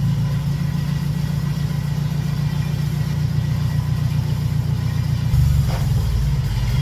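Forklift engine running steadily, its note shifting about five seconds in.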